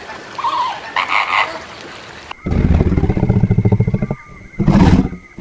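Low, rapidly pulsing croaking animal calls: a long one beginning about two and a half seconds in and lasting nearly two seconds, then a shorter one near the end. Quieter, higher calls come before them.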